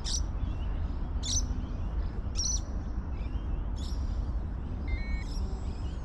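A bird chirping, short high calls repeated about once every second or so, over a steady low background rumble.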